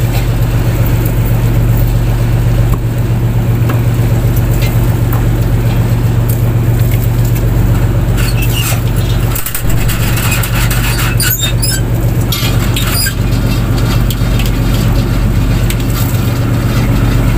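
A fishing boat's engine running steadily with a constant low drone, with a few short knocks and clatters about halfway through.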